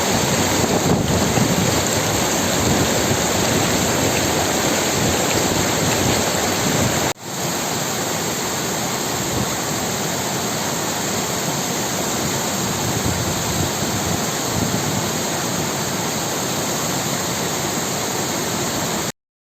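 Rushing water of the Munzur springs, a steady loud noise of spring water pouring and running. It breaks off for a moment about seven seconds in, resumes, and cuts off suddenly near the end.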